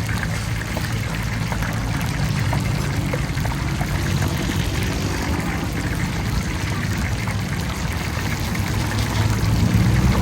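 Chicken pieces deep-frying in hot oil, a steady dense sizzle and crackle, with a low steady hum underneath.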